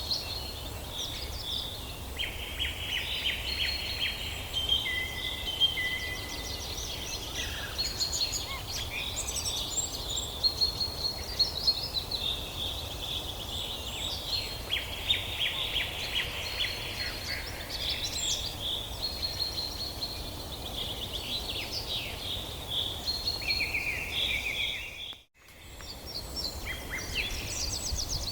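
A chorus of several forest songbirds singing over one another, with fast trills, repeated chirps and short whistles, above a steady low rumble. Near the end all the sound cuts out for a split second.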